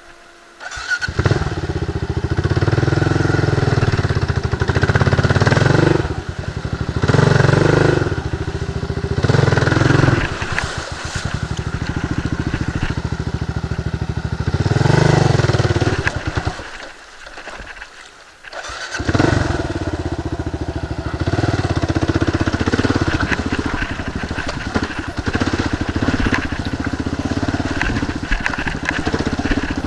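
Kawasaki KLR 650 single-cylinder motorcycle engine starting up about a second in, then revving in repeated swells. Its sound drops away for about two seconds past the middle, then picks up again and runs on.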